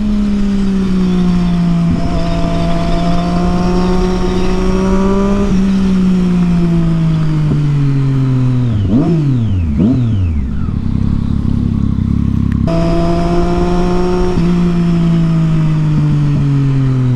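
Triumph Street Triple 675's inline-three engine through a Yoshimura exhaust on the move, holding a steady note, then rolling off with the pitch falling. Two or three quick throttle blips come about nine seconds in; the note jumps back up shortly after and holds before falling off again near the end.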